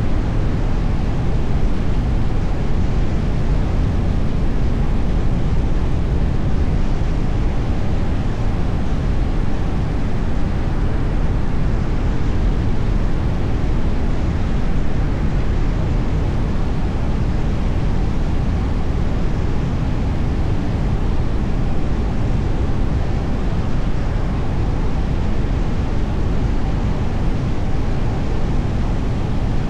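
Steady rumble of tyre and wind noise from a moving car, deepest in the low end, with no distinct events standing out.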